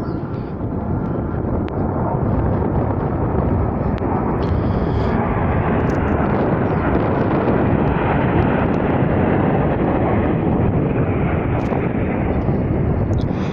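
Military aircraft flying over in a parade flypast: a loud, steady engine roar that builds about two seconds in, is loudest around the middle, and eases slightly near the end.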